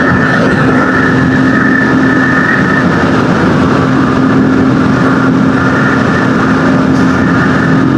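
Single-cylinder four-stroke Honda dirt bike engine running steadily under way at a held speed.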